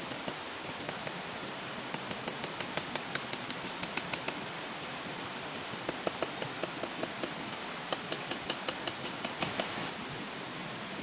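A steady rushing noise with two runs of quick, sharp clicks, about five or six a second.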